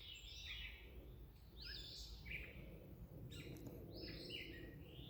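Faint bird calls: short, bending, warbling phrases repeated about every second and a half, over a low steady background rumble.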